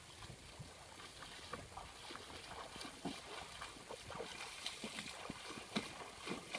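Irregular small splashes and clicks in water, several a second, over a faint steady background.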